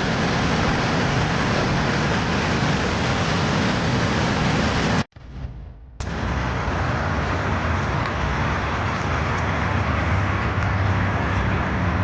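A loud, steady rushing noise. About five seconds in it drops away abruptly for about a second, then starts again.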